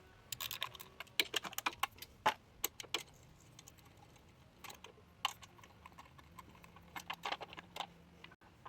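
Irregular metallic clicks and clinks from a 10 mm socket wrench undoing the bolts of a motorcycle's front sprocket cover, in three bunches: through the first few seconds, around the middle, and near the end.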